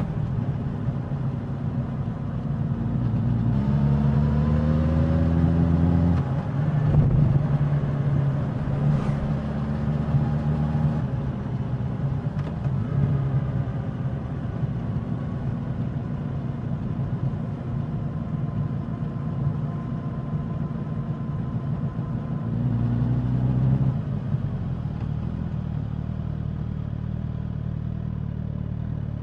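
Suzuki GSX-S1000's inline-four engine and exhaust under way. It accelerates with rising revs about four seconds in, shifts up, and cruises at steady revs, then pulls up through the revs again briefly about three-quarters of the way through.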